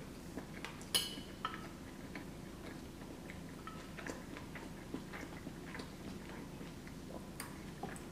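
Close-miked chewing of creamy pasta: soft, wet mouth clicks. A metal fork taps and scrapes in a glass baking dish, with a sharp click about a second in.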